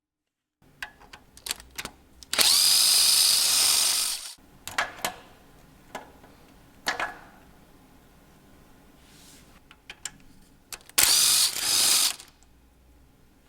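A cordless drill-driver runs twice with a steady high whine, first for under two seconds and then for about a second near the end. Light clicks and knocks of tools and engine parts come between the runs.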